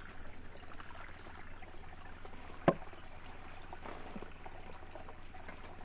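Shallow stream trickling and flowing steadily, with a single sharp click about halfway through.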